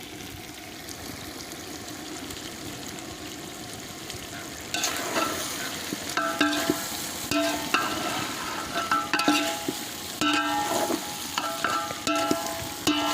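Chicken frying in a pan with a steady sizzle; from about five seconds in, a spoon stirs it in repeated strokes, scraping and clinking against the pan with short ringing notes.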